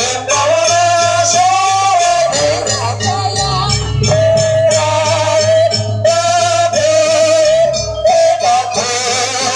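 Live Javanese jaranan buto music. A wavering high melody line is held over rapid drum and cymbal strikes.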